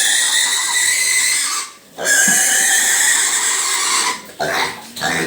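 Piglet squealing loudly while held for a vitamin injection: two long, shrill screams, then a few shorter cries near the end.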